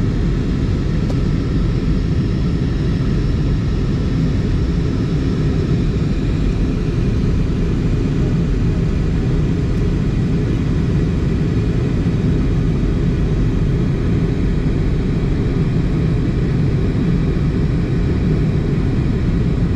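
Steady low drone of an Airbus A320's engines and cabin noise, heard from a rear window seat inside the cabin, with no change in level.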